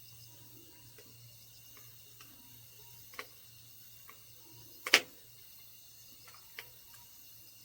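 Log campfire crackling: scattered sharp pops at irregular intervals, the loudest about two-thirds of the way in. Underneath, a faint steady chirring of autumn night insects.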